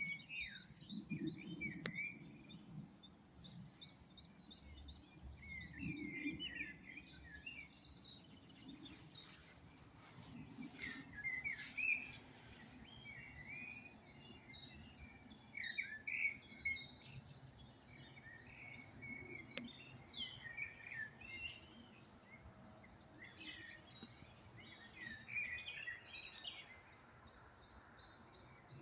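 Several songbirds singing, short high chirps and trills overlapping throughout, with one sharp click about twelve seconds in.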